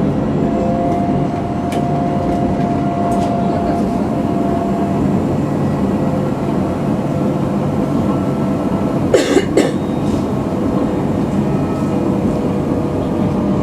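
Tram running along the street, heard on board: a steady rumble of wheels on rails with a faint, even whine from the drive. About nine seconds in there are two short, sharp knocks about half a second apart.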